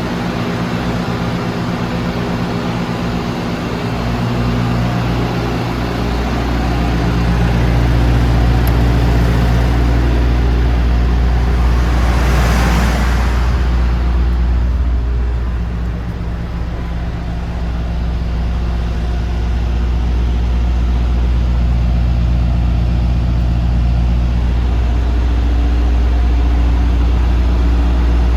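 Heavy diesel engine running steadily at idle, a low even drone. About twelve seconds in, a brief rushing sound swells and fades.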